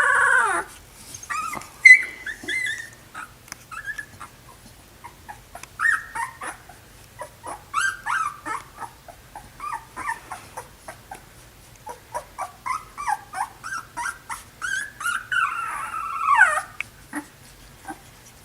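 Puppies whimpering and yipping: a run of short high-pitched whines and squeals, some sliding up and down, with a longer falling cry at the start and another about sixteen seconds in.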